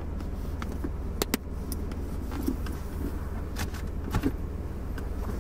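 Car engine idling steadily, heard from inside the cabin while the car stands at a drive-thru speaker, with a few short clicks scattered over it.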